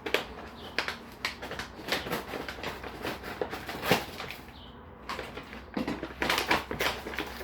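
Rustling and crinkling of a meal-kit ingredient bag being opened and handled, with irregular small clicks and knocks as items are taken out.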